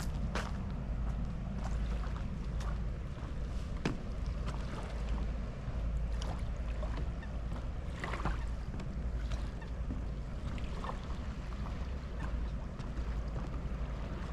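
Steady low wind rumble buffeting the microphone, with scattered light clicks and knocks over it.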